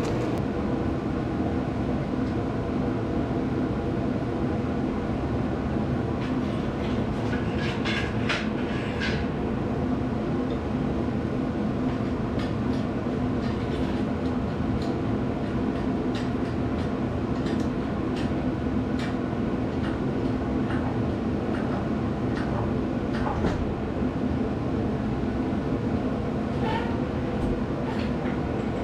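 A steady machine drone with a constant hum, with scattered sharp metallic clinks and knocks, a cluster of them about eight seconds in.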